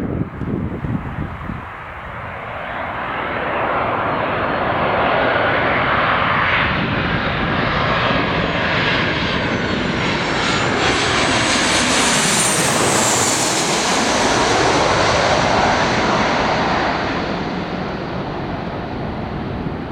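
Landing airliner passing low overhead on final approach: a rising roar of engines that builds to its loudest about two-thirds of the way through, with a high whine that bends in pitch as it goes over, then slowly fades.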